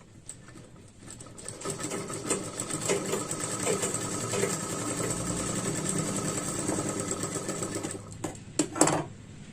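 Sewing machine stitching a seam along the blouse's hook side. It starts about a second in, runs steadily for around seven seconds and stops near the end, followed by a couple of sharp clicks.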